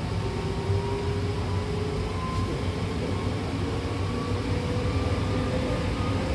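Hankyu electric commuter train heard from inside the carriage while running: a steady rumble of wheels on rail with a motor whine that slowly rises in pitch as the train gathers speed.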